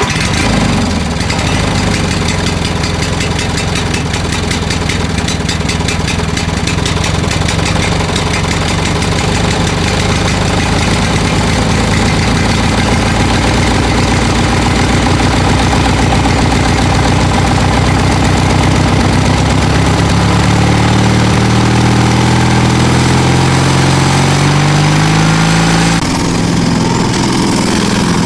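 Tractor engine running steadily. From about 20 s in its note wavers and rises, then settles back a little before the end.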